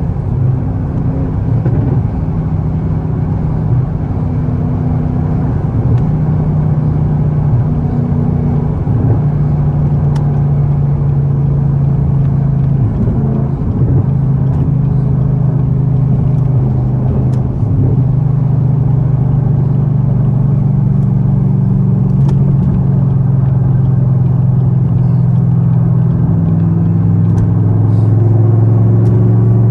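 Camaro ZL1's supercharged V8 running steadily at cruising speed, a low drone that shifts pitch a few times and grows a little louder near the end.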